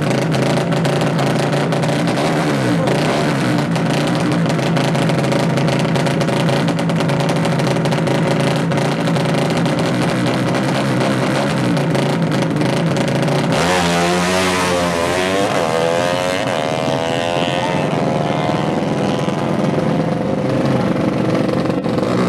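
Four-stroke drag-bike motorcycle engine running with a steady note. About two-thirds of the way through, the pitch sweeps up and down for a few seconds as the engine is revved, then it settles back to a steady note.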